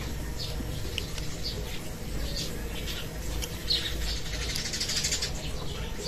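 Small birds chirping in short, scattered calls over a low, steady background rumble.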